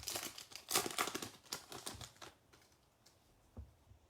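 A foil football card pack being torn open and its wrapper crinkled for about two seconds, then a few soft clicks as the cards are handled.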